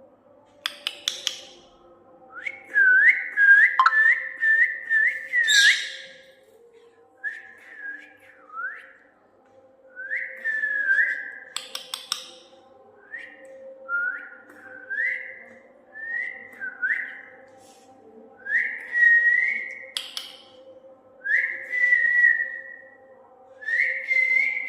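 Pet parrot whistling: a quick run of repeated sliding whistle notes, then separate shorter whistles every second or two, some rising and some falling. A few sharp clicks fall between them, over a faint steady hum.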